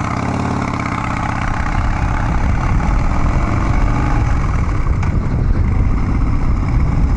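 Harley-Davidson Dyna Street Bob's V-twin engine running through Vance & Hines Big Radius 2-into-2 exhaust pipes, steady at first, then louder from about two seconds in as the throttle opens.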